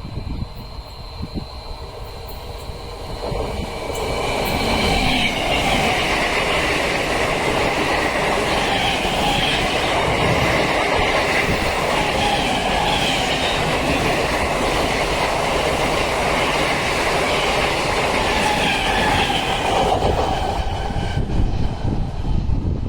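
Express passenger train running past on the rails, its wheel-and-rail noise swelling about four seconds in and staying loud until shortly before the end.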